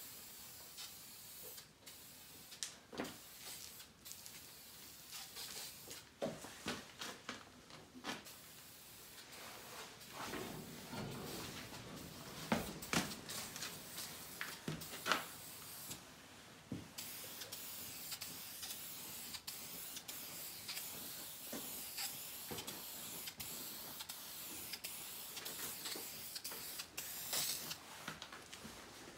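Red primer spraying in repeated bursts of hiss, short and long, with scattered light clicks and knocks in between.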